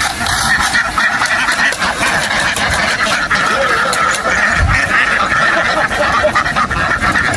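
A large flock of domestic ducks quacking all at once, a dense, unbroken din of overlapping calls.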